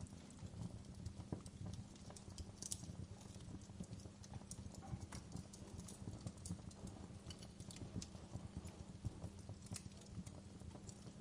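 Wood fire crackling in a fireplace: irregular snaps and pops, some sharper and louder than others, over a steady low rumble of the burning fire.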